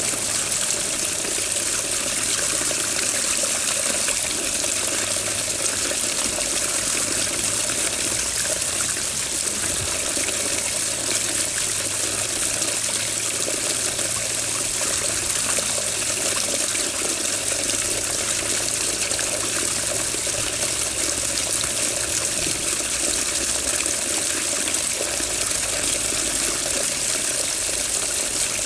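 Running water flowing steadily, a constant rushing hiss with no break or change.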